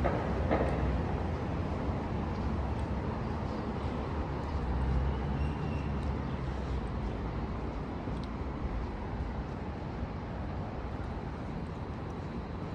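Steady street noise: a low rumble of vehicle traffic, with a few faint ticks.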